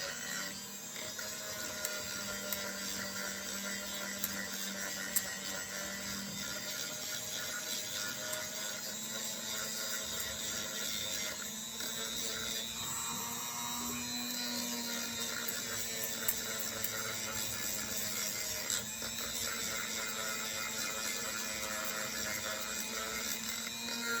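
Dremel rotary tool running steadily with a soft-grit sanding attachment, cleaning rust off an RC shock shaft.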